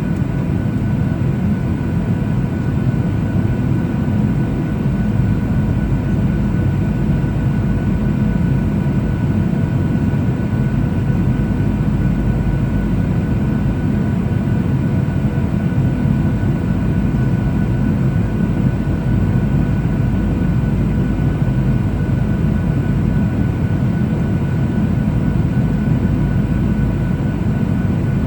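Steady cabin noise inside a Boeing 737-800 airliner in flight: a constant low roar of engines and airflow, with a few faint steady tones above it.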